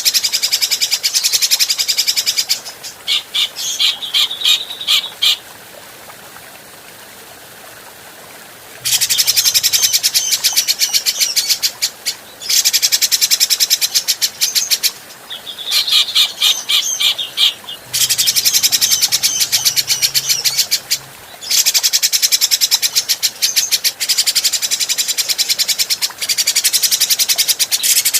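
Grey-cheeked bulbul (cucak jenggot) singing in long runs of very rapid, high chattering notes, broken by a few short pauses.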